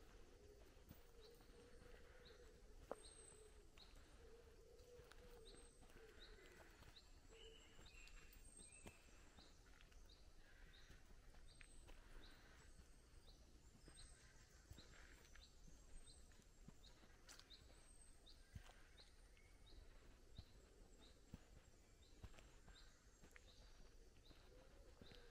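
Quiet woodland with a small bird calling one short high note over and over, a little faster than once a second, and a few higher chirps from other birds.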